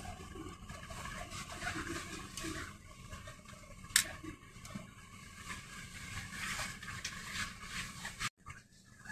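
Elizabeth line train carriage interior: a quiet, steady low running rumble with faint scattered rattles and a single sharp click about four seconds in.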